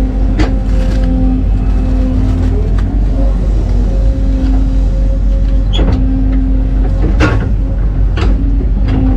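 Heavy diesel excavator engine working hard under load, with a steady hydraulic whine over the engine rumble. Several sharp metallic clanks come through it, the loudest about seven seconds in.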